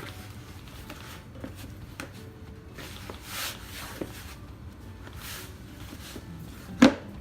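Hands kneading flour-and-cornmeal dumpling dough in a bowl: soft rubbing swishes and light taps, then one sharp knock near the end.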